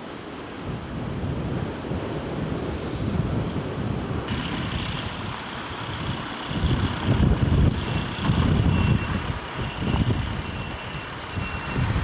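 Blizzard wind gusting hard against the microphone over the rumble of traffic; from about four seconds in, a faint high beep repeats at intervals.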